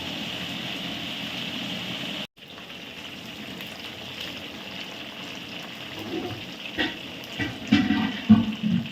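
Chicken pieces deep-frying in hot oil, a steady sizzle, with the sound cutting out for a moment about two seconds in. A few knocks and clatters come near the end as the pieces are turned in the pan.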